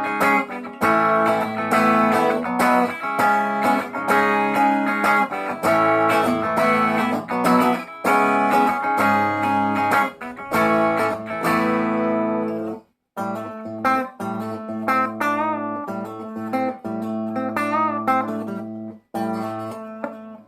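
Chinese replica Gibson ES Les Paul semi-hollow electric guitar on its bridge pickup with a clean tone, playing strummed chords. After a brief break about two-thirds of the way through, it plays single picked notes with wavering, bent pitch. The tone has a slight quack, typical of semi-hollow guitars.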